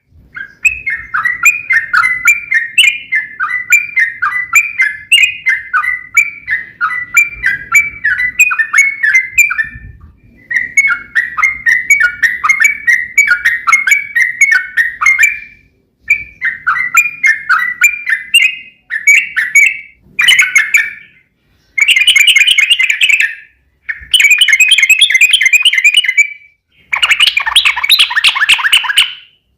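Yellow-vented bulbul (trucuk) singing its fast, bubbling 'ropel' song: long runs of rapid chattering notes, broken by brief pauses, with shorter phrases in the second half.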